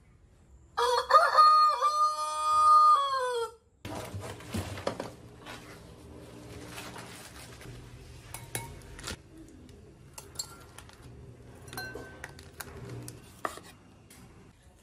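A rooster crows once: a loud call of about three seconds that falls in pitch at the end. After a sudden break come quieter scattered clinks and knocks over a low hum.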